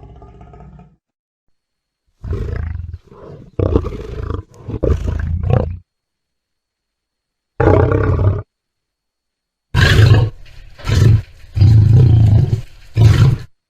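Lion roaring in short, loud bursts, about nine of them in three groups separated by silent gaps.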